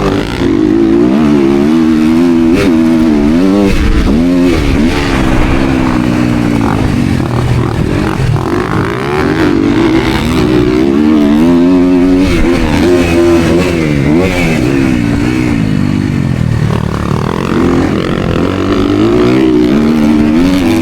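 Motocross dirt bike engine revving hard under throttle, its pitch repeatedly climbing and dropping with throttle and gear changes.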